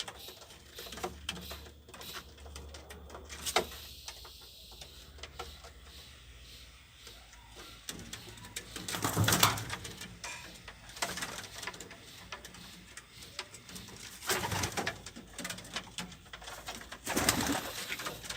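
Pigeons cooing in several bouts, with scattered small taps and scuffs between them.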